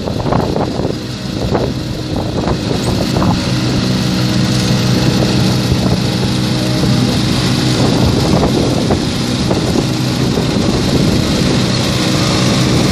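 Lawn tractor engine running steadily as it draws a silage harvester, with some wind buffeting the microphone.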